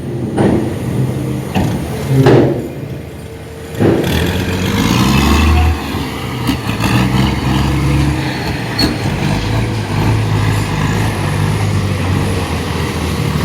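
Dump truck's diesel engine running as the truck tips its load, with a few sharp knocks in the first four seconds, then a heavier low rumble from about four seconds in.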